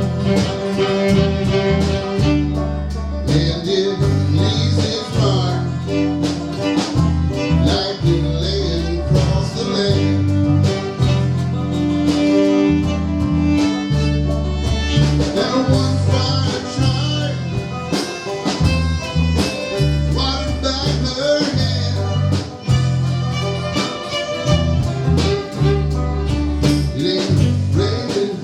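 Country band playing an instrumental break: guitar lead over a walking bass line and a steady drum beat.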